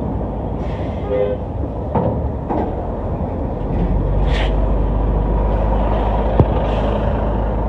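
A moving vehicle's engine and road noise, a steady low rumble that grows louder about three and a half seconds in. A brief hiss comes about four seconds in, and a single sharp click follows near the end.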